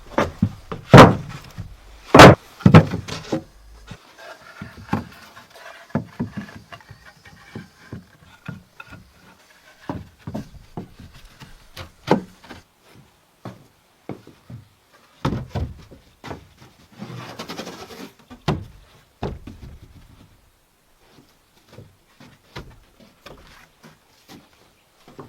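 Irregular wooden knocks and thuds, the two loudest about one and two seconds in, with a brief scraping rustle a little past halfway.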